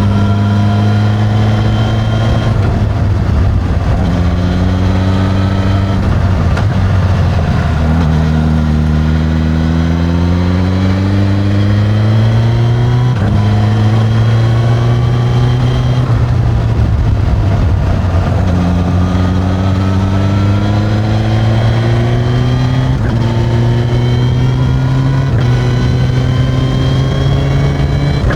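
Suzuki GSX-S1000's inline-four engine through its stock exhaust, riding under way. The engine note holds steady or climbs with the revs, then drops in pitch at each of several gear changes.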